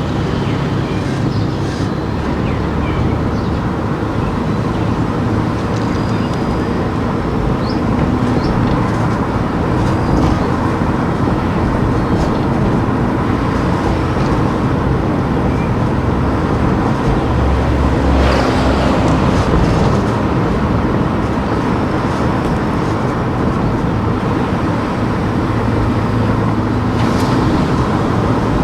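A car driving through town streets: a steady rumble of engine and tyre noise, with a louder rush about two-thirds of the way through, as of a vehicle passing.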